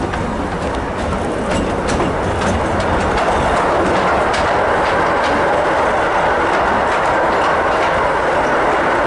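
Narrow-gauge passenger train running along the track, a continuous rumble of wheels on rail with scattered clicks over the rail joints. About three to four seconds in, as the carriage enters a tunnel, the noise grows louder and fuller and holds steady, echoing off the tunnel walls.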